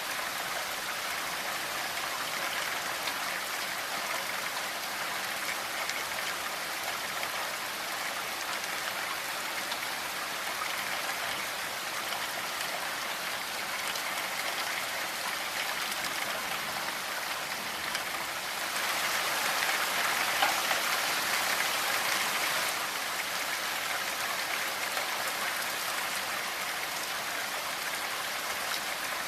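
Steady rainfall: an even hiss of many drops falling on a surface. It swells louder for about four seconds just past the middle, then settles back to the same level.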